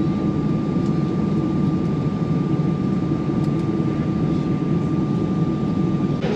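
Steady airliner cabin noise in flight: a constant low rumble of engines and airflow, with a thin steady whine above it that stops near the end.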